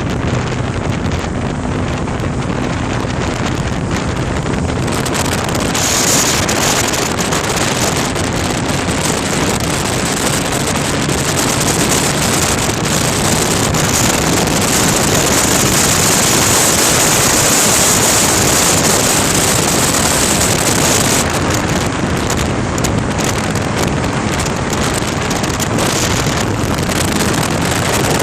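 A vehicle under way, heavily covered by wind noise buffeting the microphone. The rushing noise grows louder and brighter about six seconds in and eases back about twenty-one seconds in.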